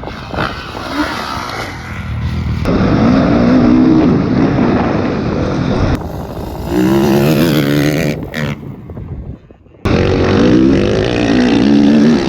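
Dirt bike engines revving hard, their pitch rising and falling with the throttle. The sound cuts abruptly from one clip to the next three times.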